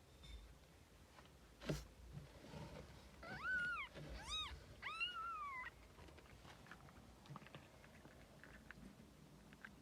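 A newborn kitten mewing three times in quick succession, short high-pitched calls that rise and fall, about a second and a half apart. A sharp click comes just before, and faint small ticks and rustles follow.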